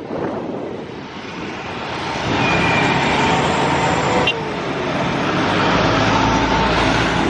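Jet airliner engines: a rushing noise that swells about two seconds in and then holds loud, with a faint high whine over it.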